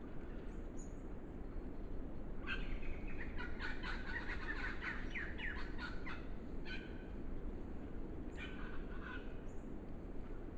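Bird calls: a fast chattering run of short calls starting about two and a half seconds in and lasting a few seconds, then two shorter bursts later, over the steady hiss of the trail camera's microphone.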